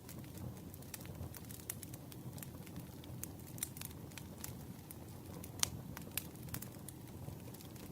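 Campfire burning: a low steady rumble under irregular sharp crackles and pops of burning wood, the loudest pop about two-thirds of the way through.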